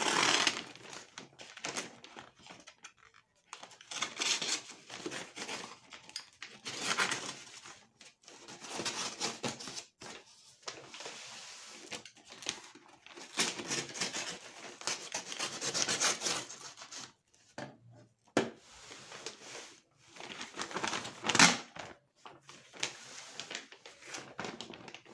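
Cardboard shipping box being opened and its packing handled: irregular scraping, rubbing and tearing of cardboard and tape, with one sharp snap about three-quarters of the way through.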